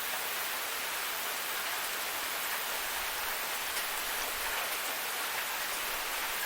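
Waterfall: falling water making a steady, even rush with a few faint splashing ticks.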